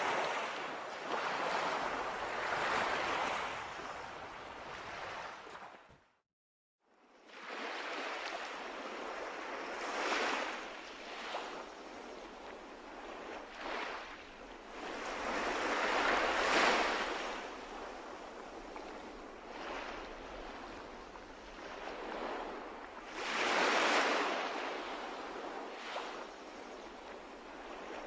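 Sea water washing and splashing in irregular swells that rise and fall every few seconds. There is a brief cut to silence about six seconds in.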